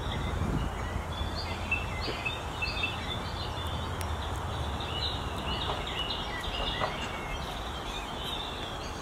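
Small songbirds chirping repeatedly, short high notes again and again, over a steady low outdoor rumble.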